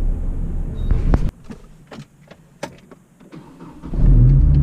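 A car door shuts with a thud about a second in. A few sharp clicks follow. Near the end the car's engine starts and settles into a steady low running hum.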